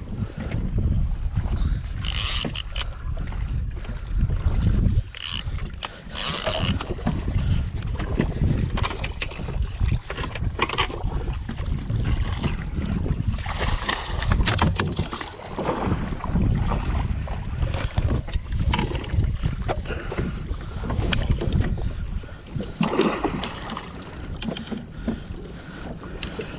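Wind buffeting the microphone aboard a fishing boat at sea: a heavy, fluctuating low rumble, with a few brief hissing gusts, one early, one about six seconds in and one near the end.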